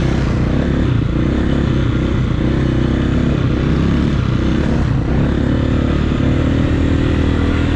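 Dirt bike engine running steadily while riding along a trail, its pitch holding nearly level with small shifts, under a steady noisy hiss.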